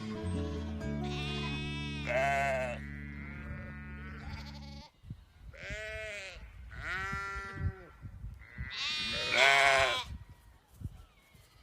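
Sheep bleating repeatedly, the loudest call near the end. Background music with steady low tones plays under the first calls and stops about halfway through.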